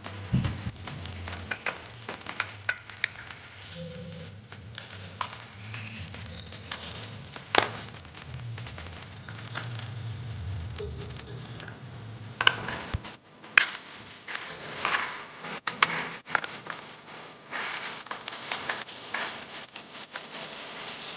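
Irregular clicks, taps and rustling, as of small parts being handled, over a low hum that stops about two-thirds of the way through.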